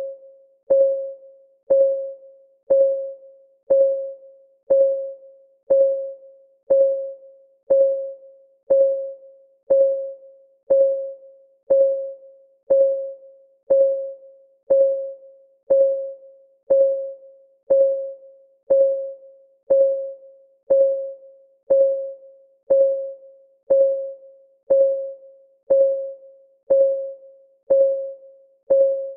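Countdown-timer clock ticking sound, one tick a second in a steady rhythm. Each tick is a short, mid-pitched tock that dies away quickly.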